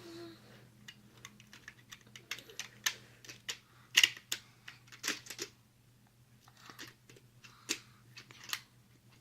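Toy building blocks clicking and clacking together as they are handled and pressed into place, in quick irregular clicks, the loudest about four seconds in.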